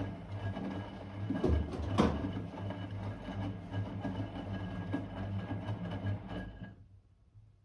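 Blomberg WA391 washing machine running its wash, its motor turning the drum with a steady low hum and rumble and a louder knock about two seconds in; the drive stops abruptly near the end, as the drum pauses between turns.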